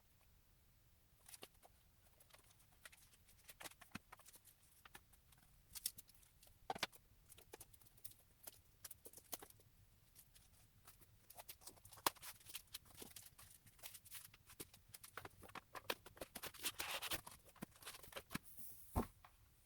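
Scattered light clicks, taps and rustles of paper and plastic items being handled and packed back into a box, with a longer rustle near the end and a soft thud just before it ends.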